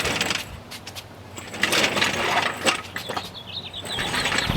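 Irregular metal clunks, rattles and scraping as a motorcycle engine is worked loose and lifted out of its frame, with a brief high squeak near the end.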